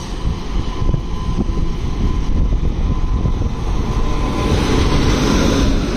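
WAP-7 electric locomotive hauling a passenger express rolling in along the platform: a steady low rumble of wheels on rail that grows louder about four seconds in as the locomotive draws close, with a thin steady tone through it.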